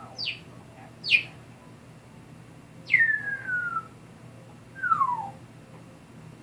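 African grey parrot whistling four falling notes: two quick downward swoops, then a longer whistle that drops and glides slowly lower, then a shorter, lower one.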